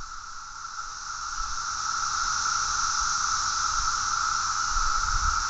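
Chorus of male 17-year periodical cicadas calling: a steady, droning buzz at one pitch with a fainter high hiss above it, swelling over the first two seconds and then holding level. It is their mating call.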